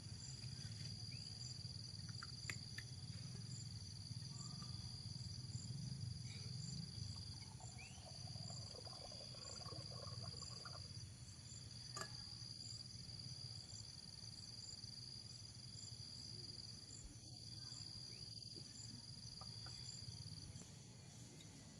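Insects trilling: a steady high-pitched buzz with a second insect's regular chirps over it, above a low rumble. A few faint clicks come through, the sharpest about halfway.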